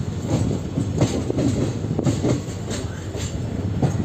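Passenger train running along the line: a steady low rumble of the wheels and carriage, with frequent clicks and knocks as the wheels pass over rail joints.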